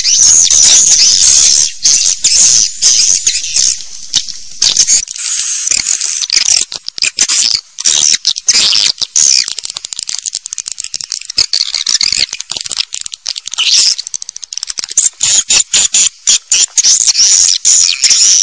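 Swiftlet calls: a loud, unbroken twittering of high-pitched chirps and rapid clicks.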